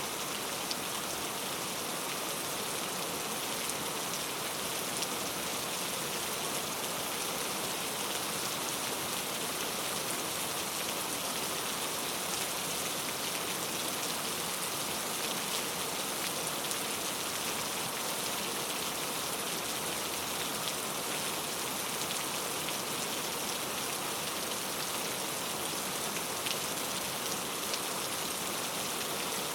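Steady rain falling in a rainforest, an even hiss of drops on foliage with a few individual drops ticking now and then.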